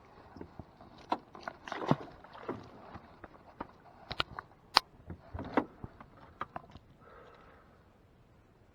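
Irregular knocks, clicks and short scrapes against a small boat's hull as a freshly caught bowfin is handled aboard. One sharp click a little past the middle is the loudest.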